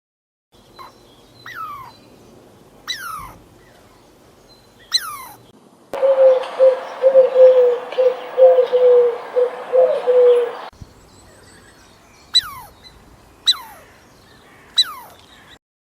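Bird calls: short whistles that fall steeply in pitch, about one a second, then a louder run of rapid, repeated low notes for about five seconds, then three more falling whistles.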